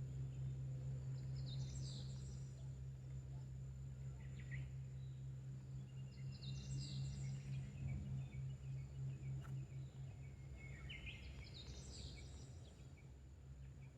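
A songbird sings three short, chattering phrases about five seconds apart over a steady low hum.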